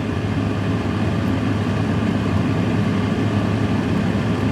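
Steady low mechanical hum inside a closed freezer, heard from within: the freezer's compressor and fan running.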